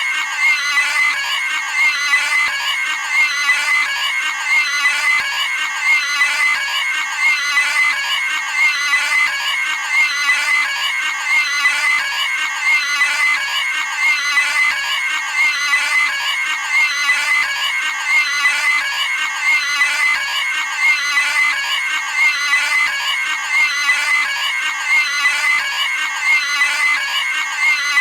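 Cartoon pig screaming sound effect: a high-pitched squealing scream looped over and over, about once every second and a half.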